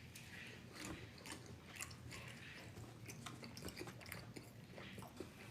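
Faint chewing and biting of food, chicken wings, with many small irregular wet clicks and crunches of the mouth.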